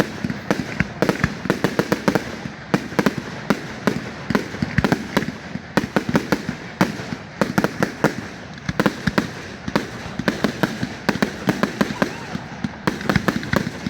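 Fireworks display going off in a rapid, continuous barrage of bangs and crackles, several every second.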